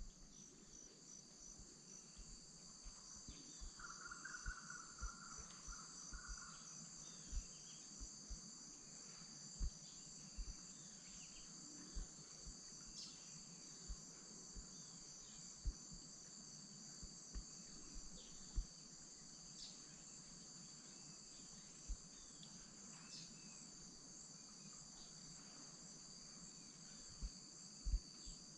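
Dense tropical insect chorus: a steady high-pitched buzzing with a fast pulsing trill layered over it. Short chirping calls come through now and then, and a brief warbling call sounds about four seconds in. Scattered soft low thumps are the loudest moments, the biggest near the end.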